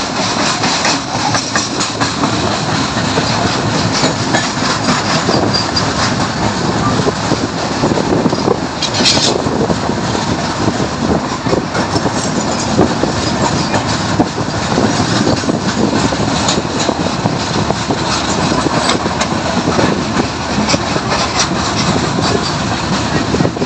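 Passenger train running at speed on the rails: a steady, loud rush of noise with rapid wheel clatter over the track, close beside a line of covered freight wagons going by. A brief sharper hiss comes about nine seconds in.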